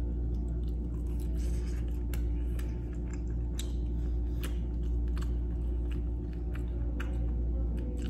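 Close-up chewing and mouth sounds of a man eating by hand: wet chewing with irregular sharp clicks and small crunches as he picks at fried fish and cabbage. A steady low hum runs underneath.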